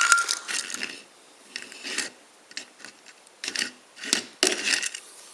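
Die-cast toy vehicles being handled: scattered clicks, light knocks and short scraping rubs of small metal and plastic models, with a brief metallic ring at the start.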